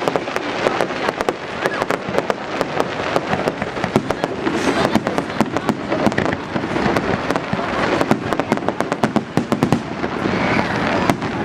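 Fireworks going off on Bonfire Night: a dense, unbroken crackle of sharp bangs, many a second, over a steady rumbling background.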